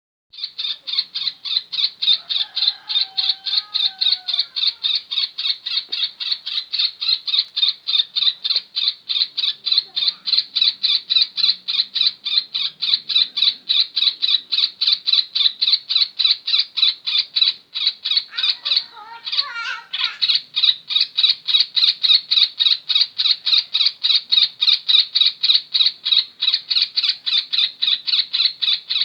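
Yellow-vented bulbul (trucukan) call recording played as bird-training audio: a fast, even train of harsh chirps, about four a second, with a few sliding whistled notes about three seconds in and again near twenty seconds.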